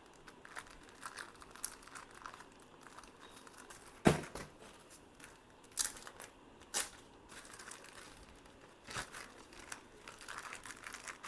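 Packaging being handled while a speaker is unboxed: crinkling and rustling with scattered clicks, a sharp knock about four seconds in, and a few more sharp clicks later.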